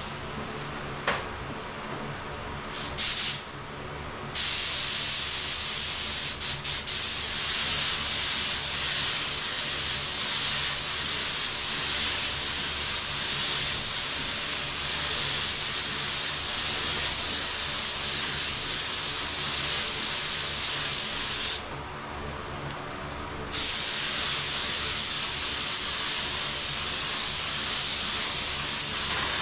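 Compressed-air spray gun spraying a second coat of clear lacquer, a loud even hiss with a short trigger burst just before it starts in earnest. The spraying stops for about two seconds around two-thirds of the way through, then resumes.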